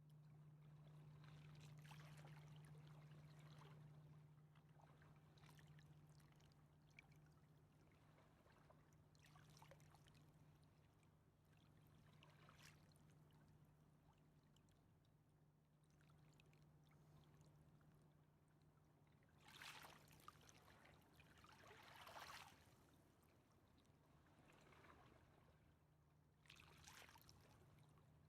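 Faint river water lapping in soft, irregular swishes, about six of them, over a steady low hum.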